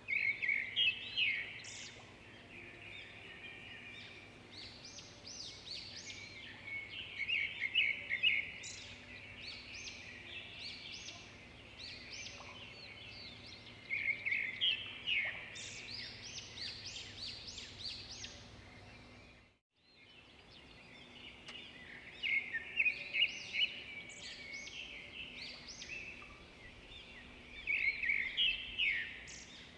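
Swiftlets chirping and twittering in bursts that come and go every several seconds over a faint steady hum; the sound cuts out completely for a moment about two-thirds of the way through.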